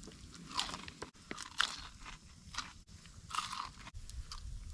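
Crunchy chewing on a deep-fried egg roll: several crisp crunches spaced about a second apart.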